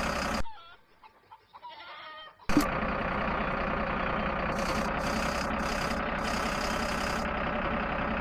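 Tractor engine running steadily. It cuts out about half a second in and comes back abruptly with a click about two and a half seconds in.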